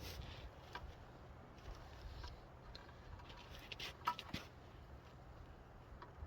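Faint scattered clicks and taps of hand work on the scabbard and its straps, the loudest pair about four seconds in, over a low steady rumble.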